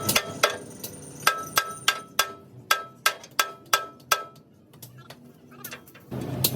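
Hand hammer striking steel, about a dozen sharp blows at roughly three a second, each leaving a short metallic ring; the blows stop about two-thirds of the way through.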